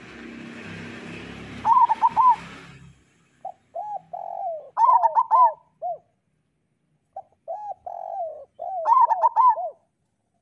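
Local zebra dove (perkutut) cooing in three runs of quick, bubbling coo notes with short gaps between them. A hiss and low rumble sits under the first few seconds.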